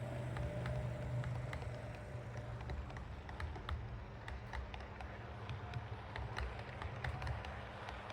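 Model train, an Acme E656 locomotive model with its coaches, running on track: a low motor rumble with many quick sharp clicks of the wheels over rail joints, coming thicker after about three seconds.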